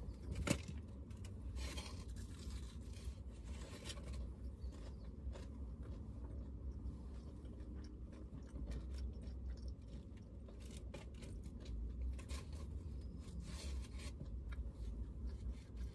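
Quiet eating sounds: chewing on a hash brown and bacon, with scattered small crunches and scrapes, over a steady low hum.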